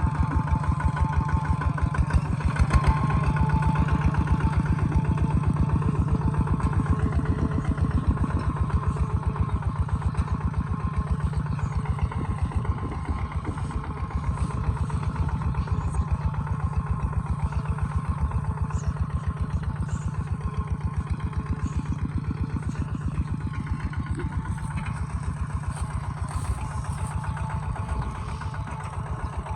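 Kubota ZT140 single-cylinder diesel engine of a two-wheel tractor running steadily, a fast, even chug of firing strokes.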